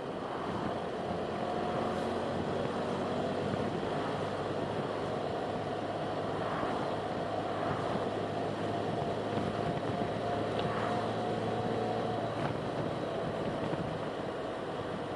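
A car driving along, with steady road and wind noise and a low, even engine hum.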